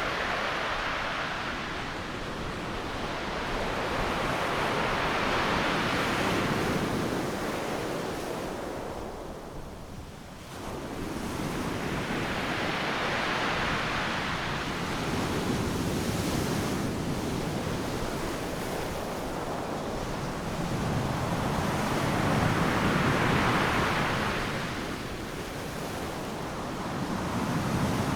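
Ocean surf: waves breaking on a sandy beach in a continuous wash that swells and fades with each set, dipping briefly about ten seconds in, with some wind noise on the microphone.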